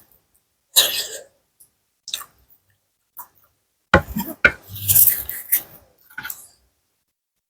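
A person eating close to the microphone: chewing and slurping a pounded papaya salad with rice noodles and pickled seafood. Short separate bursts, then a longer, louder spell about four to six seconds in.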